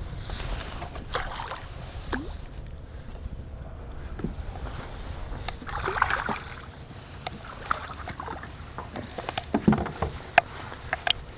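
Small fishing boat on the water: water lapping and splashing against the hull, with a louder splash about six seconds in and scattered knocks and clicks against the boat, more of them near the end.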